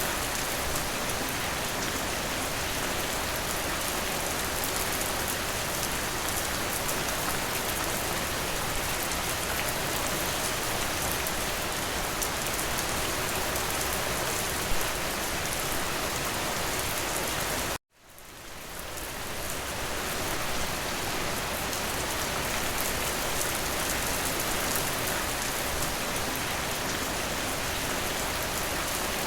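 Steady, dense rainfall. About two-thirds of the way through it cuts out suddenly for an instant, then fades back in over a couple of seconds.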